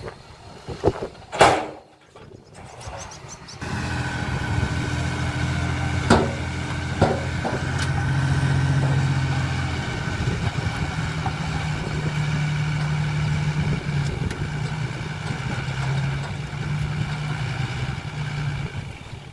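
Diesel engine of a heavy earthmoving machine running steadily; it comes in about three and a half seconds in, and its pitch steps up a little around halfway. A few sharp knocks come early on, the loudest about a second and a half in, and two more shortly after the engine comes in.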